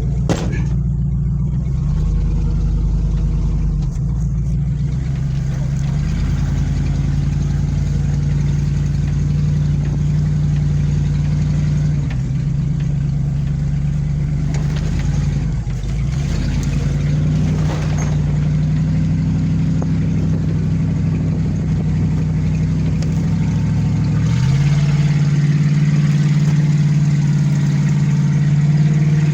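1994 Ford one-ton truck's engine running under light throttle, its speed shifting up and down several times and settling a little higher near the end, as it is used to pull a car.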